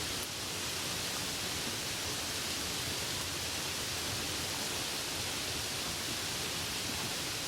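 Steady rainfall: a continuous, even hiss of rain with no distinct drops standing out.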